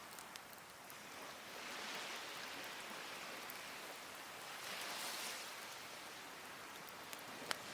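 Small waves washing onto a beach, swelling twice, with a few sharp crackles from a burning wood fire and one louder pop near the end.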